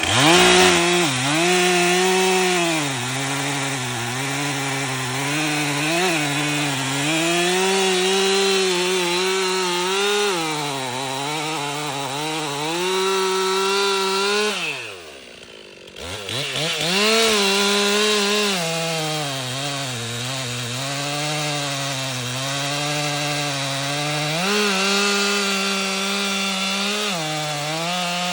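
Chainsaw running at full throttle while it cuts through a tree trunk, its pitch wavering as the chain bites into the wood. About halfway through, the throttle is let off for about a second and the engine falls away, then it revs up and cuts again.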